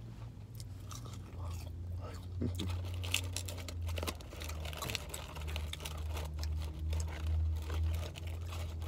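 A person chewing and biting McDonald's French fries, with many small crunches and mouth clicks and a rustle of the paper fries carton. A steady low hum runs underneath from about a second and a half in.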